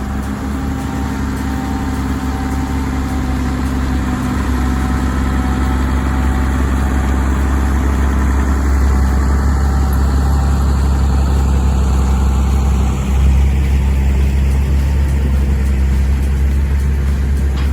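Bulldozer's diesel engine running steadily with a low drone, briefly dipping and surging about thirteen seconds in.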